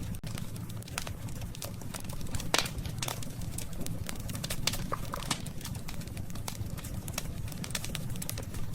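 Campfire of burning wood crackling, with frequent sharp pops and snaps of varying strength over a steady low rumble of the flames; one louder pop comes about two and a half seconds in.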